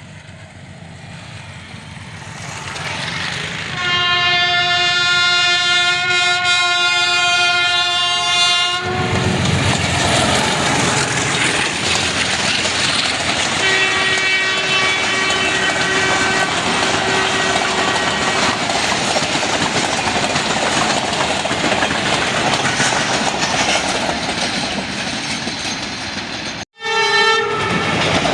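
Passenger train approaching and passing, its diesel locomotive's horn sounding a long chord-like blast about four seconds in as the train gets loud. Then comes the steady rumble and clatter of the passing coaches, with a second, fainter horn blast in the middle. Near the end a brief dropout is followed by another short horn blast.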